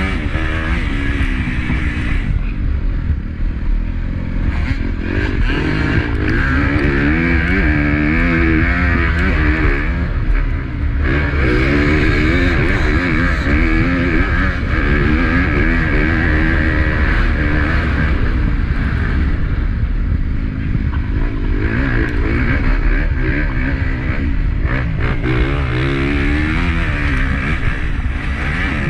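Honda CRF250 single-cylinder four-stroke motocross engine being ridden hard, its revs rising and falling over and over as the throttle is worked, with a steady noise of wind and rattle over it. The revs drop back briefly a few seconds in and again about two-thirds of the way through.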